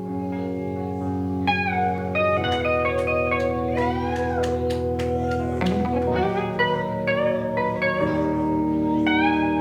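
Live rock band playing an instrumental passage: electric guitar over sustained bass and keyboard chords, with the guitar bending and sliding notes in the middle.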